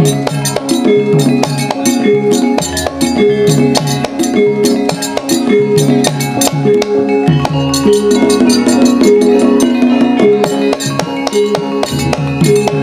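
Javanese gamelan ensemble playing Lengger dance accompaniment: struck metallophones ring a repeating melody over sharp drum strokes, with deep low notes that come and go.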